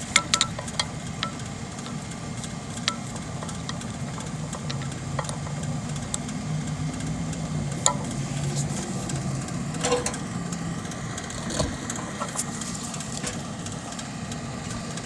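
Scattered sharp metal clicks and taps of hand tools working a set screw loose on a blower motor pulley, over a steady low hum.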